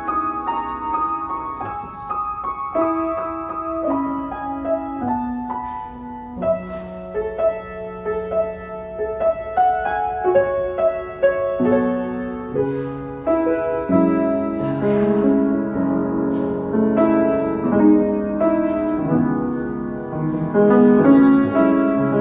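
Solo piano playing a melody over sustained chords. The playing grows fuller, with deeper notes, about two-thirds of the way in.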